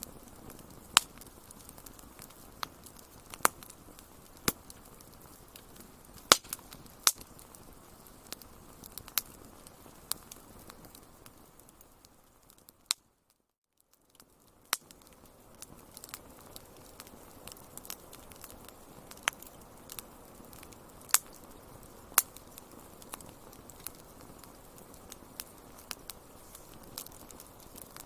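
Wood fire crackling: a steady soft hiss under irregular sharp pops and snaps, some much louder than others. About halfway through, the sound fades and drops out to silence for about a second and a half before the crackling resumes.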